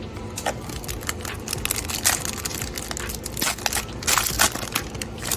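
Foil trading-card booster pack being crinkled and torn open by hand, in irregular crackly bursts that are busiest around the middle and again shortly before the end.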